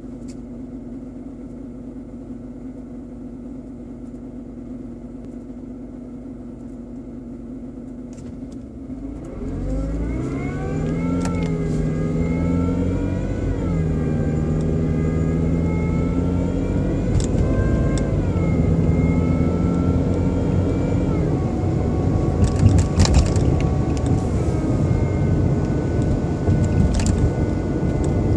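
BMW 120i (E87) four-cylinder engine running with a motor-like whine whose pitch follows engine speed. The owner thinks it comes from behind the air-cleaner box, and an engine oil change has not cured it. A steady, quieter hum gives way about nine seconds in to a louder engine note, and the whine rises and falls with several revs.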